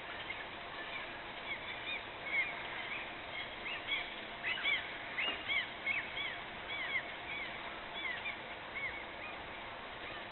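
Birds calling over and over, a string of short, arched chirps over a steady background hiss.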